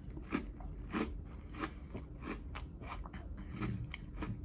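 Close-up chewing of a crunchy Oreo sandwich cookie: a steady rhythm of crisp crunches, a little under two per second.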